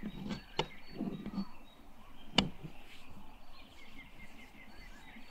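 Small birds chirping in short calls, with low pulsing sounds in the first second and a half and one sharp click about two and a half seconds in.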